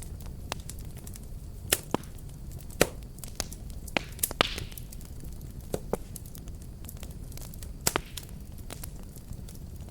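Wood fire burning with a steady low rumble and irregular sharp crackles and pops, a handful of them loud, and a brief hiss about halfway through.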